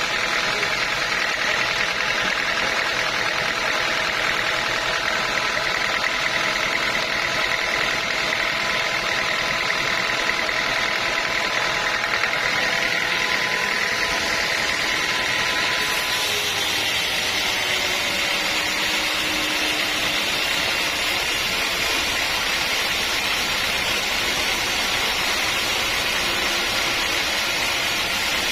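Sawmill machinery running steadily with an engine-like drone. About halfway through, the sound turns hissier and the steady hum tones drop away.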